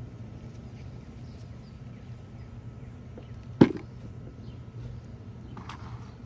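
A single sharp knock against the potato bucket a little past halfway, with a short scrape of digging in soil near the end, over a steady low hum.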